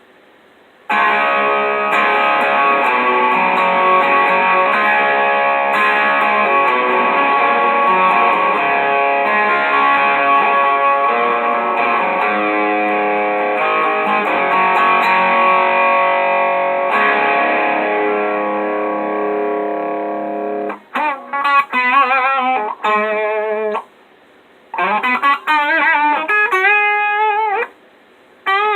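Electric guitar played through an Electro-Harmonix Screaming Bird treble booster set at about noon: strummed chords left ringing for about twenty seconds, then single-note phrases with string bends and short pauses.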